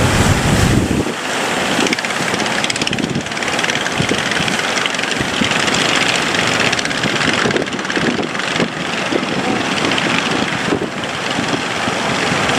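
A boat's engine running steadily under a loud rushing noise. A heavy low rumble drops away about a second in.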